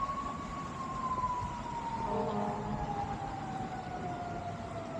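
A distant siren wailing: one long tone that peaks just after the start and then slowly falls in pitch.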